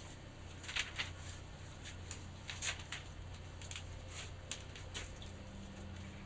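Steady low hum under a scatter of short, sharp clicks and rustles, the loudest about a second in and again near the middle.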